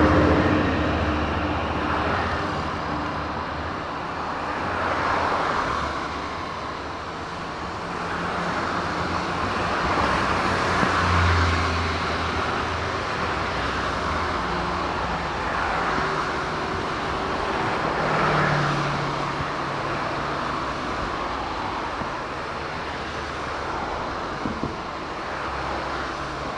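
Boeing 747-8 freighter's four GEnx jet engines at takeoff power, heard as a steady jet rumble that swells and eases every few seconds.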